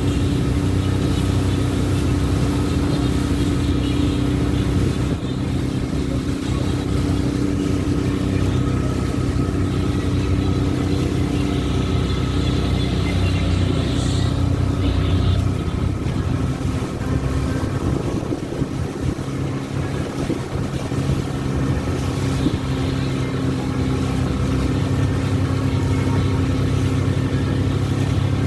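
Boat engine running steadily, a continuous low drone.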